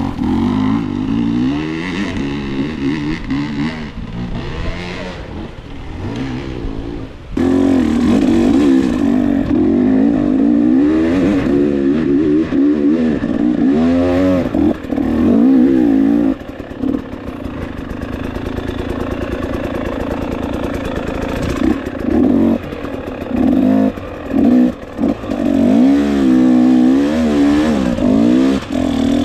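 Dirt bike engines revving hard and unevenly, the throttle opened and chopped over and over as the bikes climb a steep wooded trail, with short drops where the throttle is shut off.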